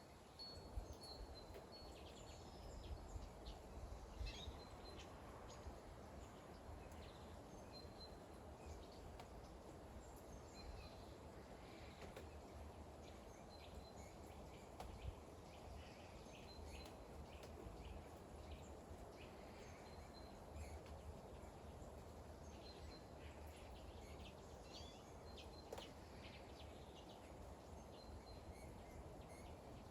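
Faint steady rain with scattered drips, and birds chirping in short high notes.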